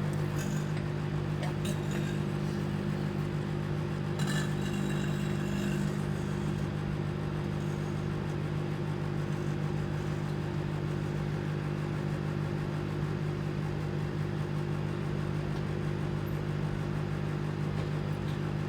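Microwave oven running with a telephone inside, a steady low hum from its transformer and fan. A few faint clicks come in the first six seconds.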